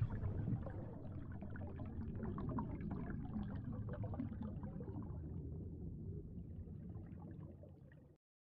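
Underwater water sound effect: bubbling, gurgling water with many small crackles. It fades slowly and stops abruptly shortly before the end.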